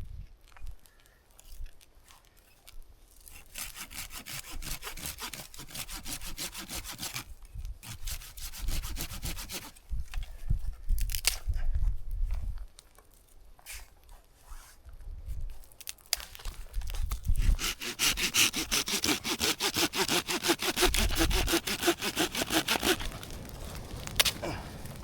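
Hand saw cutting through wood, in two long spells of quick strokes with a pause between them.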